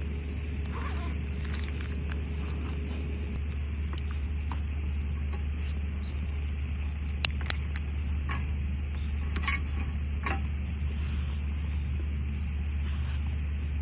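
Crickets chirping in a steady, high-pitched chorus, with two sharp clicks in quick succession about halfway through and a few fainter ticks after them.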